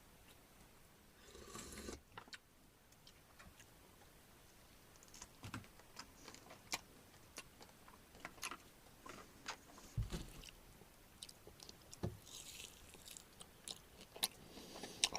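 A person chewing and biting into fried meat, with scattered soft clicks and wet smacks.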